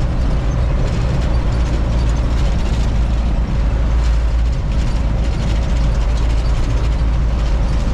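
Steady low rumble of a truck's engine running, with no break or change.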